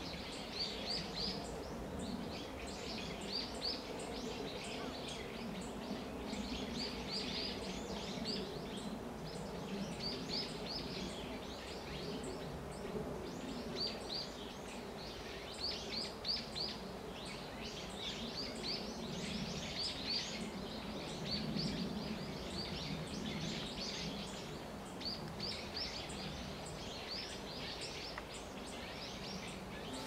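Small birds calling in short runs of quick, high chirps, repeated every second or two, over a steady low background rumble.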